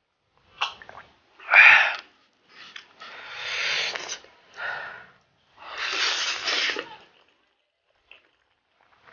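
Noisy mouth and breath sounds from someone eating extremely spicy Buldak fire noodles: a loud, sharp sneeze-like burst about a second and a half in, then several long, hissing, breathy sounds, each lasting a second or more.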